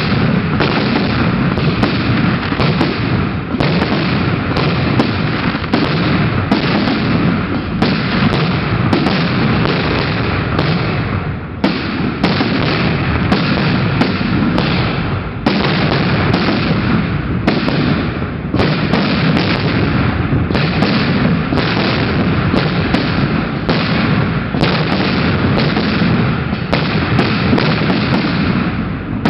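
Fireworks display with aerial shells bursting in rapid, nearly unbroken succession, booms and bangs overlapping one another, easing only briefly about twelve and fifteen seconds in.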